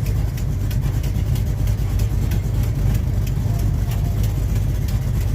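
Car engine idling with a deep, steady low rumble.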